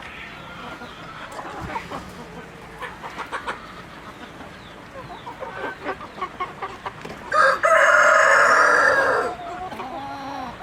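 Chickens clucking, with a rooster crowing once, loud and about two seconds long, about two-thirds of the way through.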